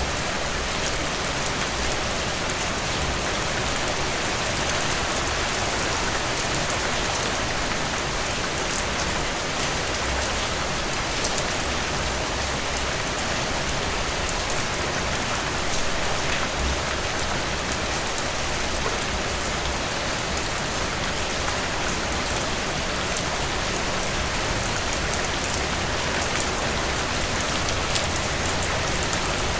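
Steady rainfall with dense pattering of drops on surfaces and no thunder. Even and unbroken.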